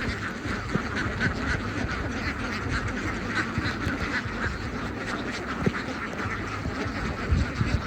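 A large flock of domestic ducks quacking all at once, a dense unbroken chatter of overlapping calls, with a couple of dull knocks near the end.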